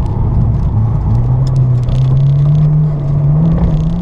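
Honda Civic Type R's four-cylinder engine pulling under acceleration in gear, its revs rising steadily, heard from inside the cabin.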